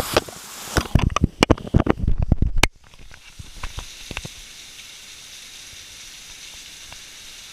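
Rain: heavy drops strike close to the microphone in a dense crackle of sharp taps, then cut off suddenly after about two and a half seconds to a faint steady hiss with a few scattered drips.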